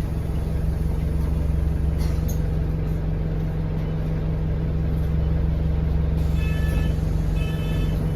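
Enviro200 single-deck bus engine running with a steady low drone, heard from inside the saloon. About six seconds in, a repeated electronic beeping starts up in short groups.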